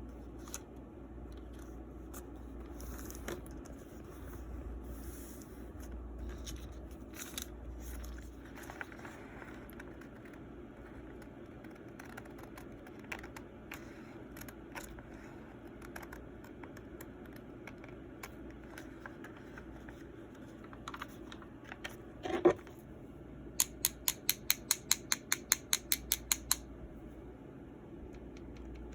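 Scattered light clicks and handling noises over a steady low hum, with a sharp knock about two-thirds through, followed by a quick, even run of about fifteen sharp clicks, around five a second.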